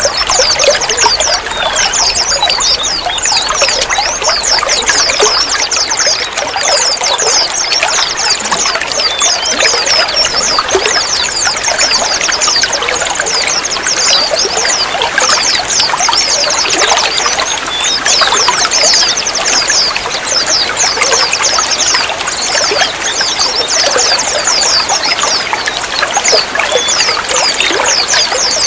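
Running water trickling and splashing steadily, like a small stream or water pouring over stones, with many quick high-pitched bubbling plinks.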